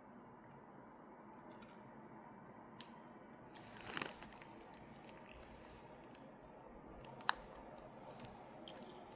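A parrot's beak nibbling and picking at food: a short scratchy crunch about four seconds in, a single sharp click a little after seven seconds, and a few faint ticks over low room hum.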